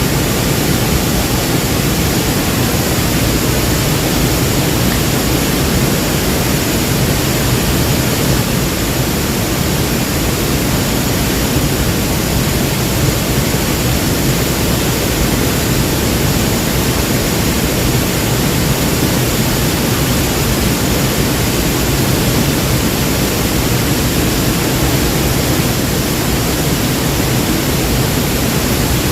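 Waterfall: the steady, unbroken noise of falling water, loud and even.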